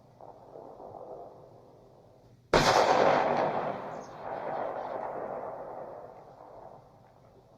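A single pistol shot about two and a half seconds in, followed by a long rolling echo that fades away over several seconds.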